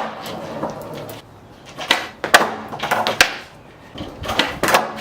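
Skateboard clacking and knocking on the ground as the tail is popped and the board lands or falls after failed heelflip tries: several sharp knocks in quick pairs, starting about two seconds in.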